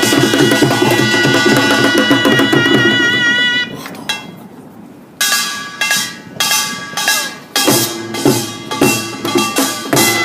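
Korean pungmul percussion band playing: fast, steady strokes of drums and small gongs under a held, wavering melody line. The playing breaks off a little under four seconds in and starts again about a second and a half later with separate strokes building back into the rhythm.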